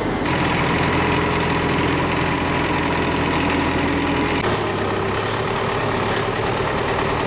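Heavy engine of road-repair machinery running steadily at a low idle, with abrupt shifts in the sound about a quarter second in and again about four and a half seconds in.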